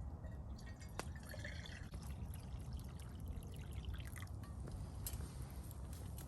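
Liquid being poured, with a few sharp clicks, over a steady low rumble.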